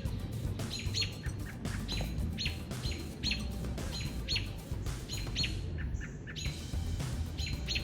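Small birds giving sharp, repeated scolding calls, about one a second and often in pairs, as they mob a perched hawk. A steady low rumble runs underneath.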